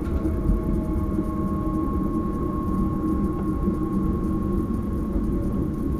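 Electric Sprinter train running along the line: a steady rumble of the wheels on the track, with the thin whine of the electric drive over it, one tone of which slowly falls in pitch.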